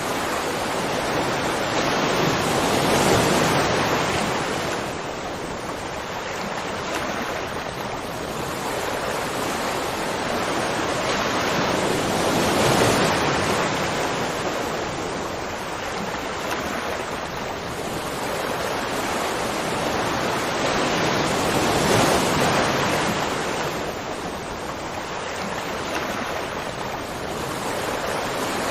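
Waterfall rushing: a dense, continuous hiss of falling water that swells and eases slowly, about every nine or ten seconds.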